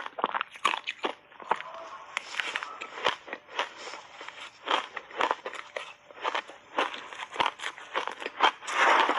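Shaved ice being bitten and chewed with big crunchy bites: irregular sharp crunches several times a second, with a louder, denser stretch of crunching near the end.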